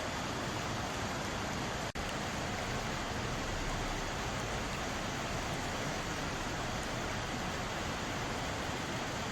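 Mountain valley stream running steadily, water rushing and splashing over rocks, with a split-second dropout about two seconds in.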